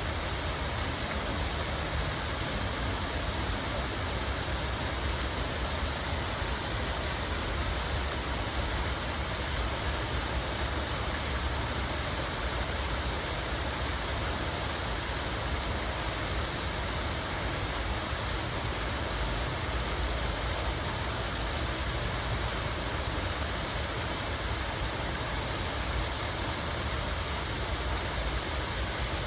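Water flowing and splashing steadily, a continuous even rush with a low rumble beneath it.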